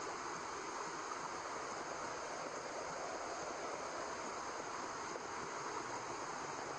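White noise: a steady, even hiss that does not change, with no beat or pulse in it, played as a baby sleep sound.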